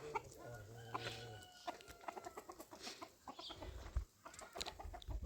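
Chickens clucking, with a few short knocks.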